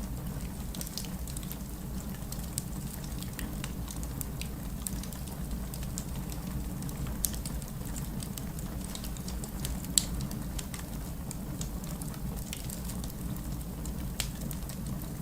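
Fireplace crackling, with scattered small pops and one sharper pop about ten seconds in, over a steady low rumble of distant city rain.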